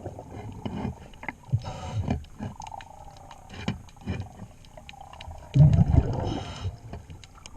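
Scuba diver breathing through a regulator underwater: a short hiss of inhaling, then a loud rumble of exhaled bubbles more than halfway through, with scattered sharp clicks and taps from work on the propeller.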